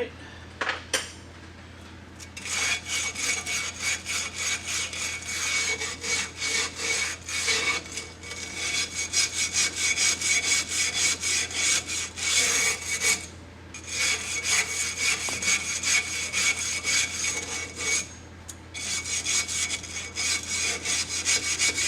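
Rapid back-and-forth hand scraping, scrubbing crusted grime off a metal part, in three bouts separated by short pauses.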